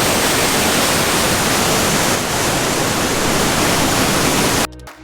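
Loud, steady roar of a waterfall's rushing water close to the microphone, which cuts off abruptly near the end as electronic music starts.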